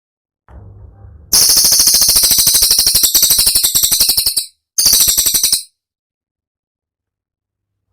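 Cililin songbird singing a rapid-fire trill of sharp, high-pitched notes, about a dozen a second, for about three seconds. After a brief pause comes a second, shorter burst.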